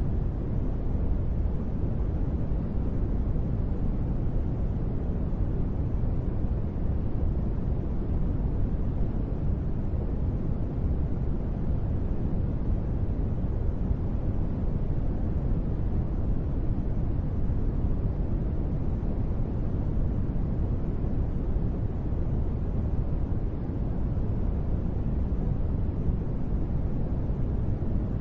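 Steady sleep-track noise, sold as gentle rain white noise: a deep, even rush with little high hiss and no separate drops or other events, unchanging throughout.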